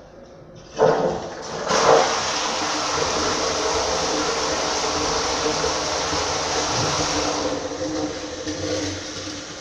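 Toilet flushing: a sudden rush of water about a second in, surging again a moment later, running steadily and then dying down near the end.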